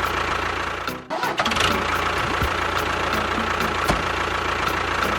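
Small motor of a DIY mini tractor running steadily with a thin whine. It cuts out briefly about a second in, then resumes.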